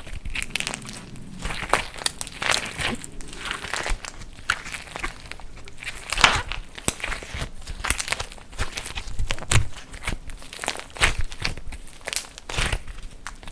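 Slime being squeezed and pressed by hand, its dried clay coating cracking with irregular crackles and crinkles.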